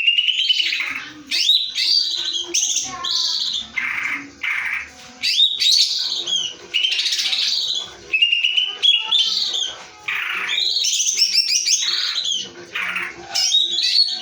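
Cucak ijo (greater green leafbird) singing a loud, varied song of shrill, sweeping whistles, rolling trills and chattering phrases, each phrase a second or two long with short pauses between them.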